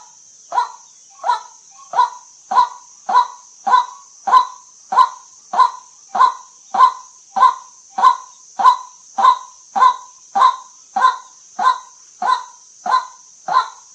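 White-breasted waterhen giving its repeated 'kwak' call, one short call about every 0.6 s in an even, unbroken rhythm. A steady high hiss runs underneath.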